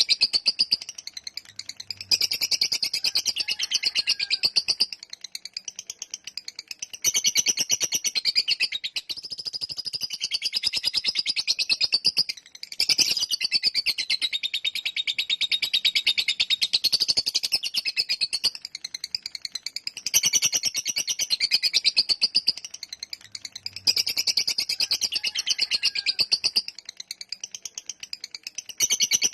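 Lovebird singing its long 'ngekek' song: a rapid, continuous high-pitched chatter of densely packed notes, running in stretches of several seconds with brief dips between them.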